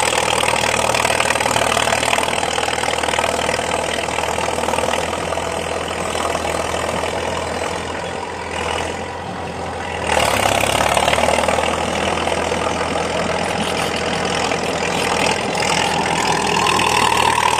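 Komatsu D50A crawler dozer's diesel engine running through a loud open exhaust pipe. It eases off briefly about halfway through, then picks up again.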